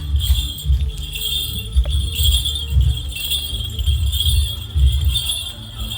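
Bantengan accompaniment music: a steady drum beat about twice a second under continuous jingling bells.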